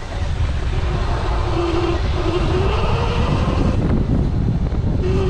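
Electric dirt bike motor whining, its pitch dipping and rising with speed, under heavy wind buffeting the microphone.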